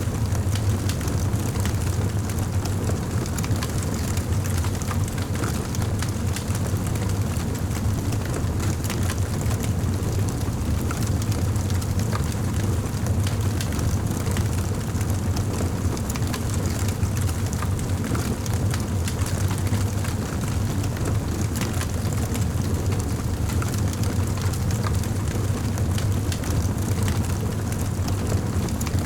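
Fireplace fire crackling, with frequent small pops over a low, steady rumble.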